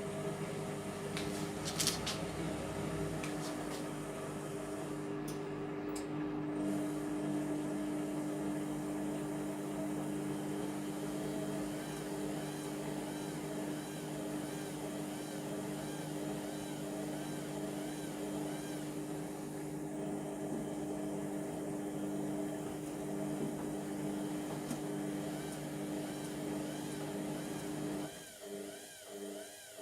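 Indesit MTWC71252WUK washing machine running on its Cotton 30 cycle: a steady motor hum, with a couple of clicks about two seconds in. Near the end the hum drops away suddenly, leaving a quieter pulsing sound about once a second.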